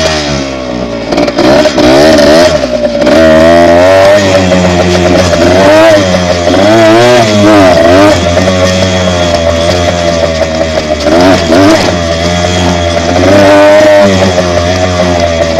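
Dirt bike engine running loud under way, its pitch repeatedly climbing and dropping back as the throttle is opened and eased.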